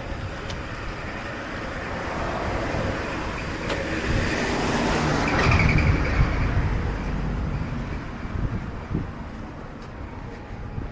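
A road vehicle passing close by: traffic noise swells to a peak a little past halfway, then fades away.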